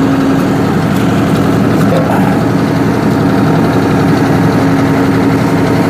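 Tractor engine idling steadily, with a constant hum, as it powers a hydraulic log splitter.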